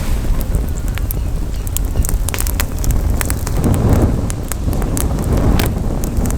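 Campfire crackling, with frequent irregular sharp pops from the burning wood. Wind rumbles on the microphone underneath and swells briefly a little past the middle.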